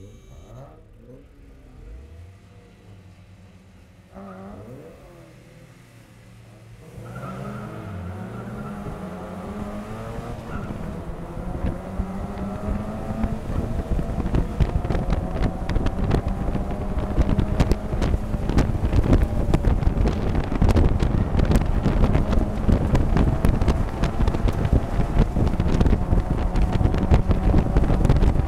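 Mazda MX-5 race car heard from inside the cockpit: quiet at first, then about a quarter of the way in the engine pulls away. It grows steadily louder and slowly rises in pitch as the car gathers speed, with wind and road noise building in the cabin.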